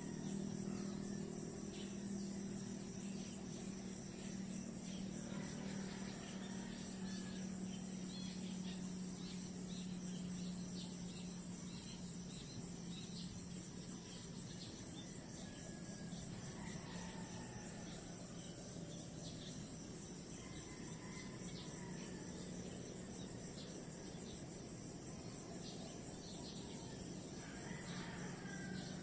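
Crickets trilling in a steady, unbroken high chorus, over a low steady hum, with a few faint sliding calls now and then.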